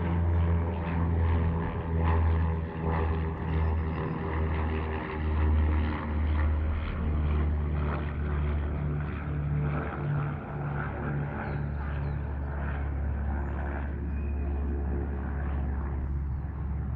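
Steady, loud engine-like drone: a low hum that swells and eases every second or so, with several steady tones above it.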